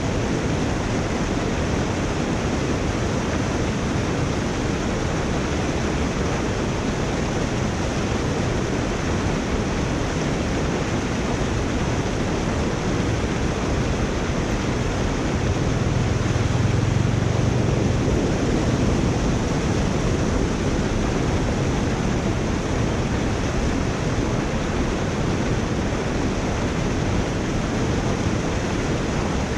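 Water rushing steadily through a culvert drain, a loud even wash of noise that swells briefly in its low rumble about halfway through.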